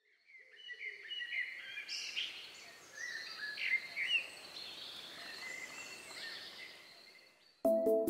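Small birds singing and calling, many short chirps and quick whistled notes over a faint outdoor hiss, fading in and later fading away. Just before the end, music with a steady beat comes in suddenly and louder.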